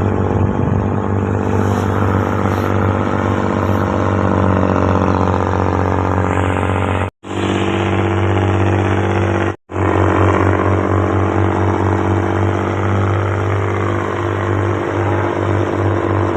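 Purse-seine fishing boat's engine running steadily at a constant speed, with two brief cuts to silence about seven and nine and a half seconds in.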